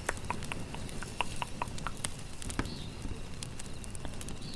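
Campfire crackling, with irregular sharp pops and snaps over a low, steady rumble of burning.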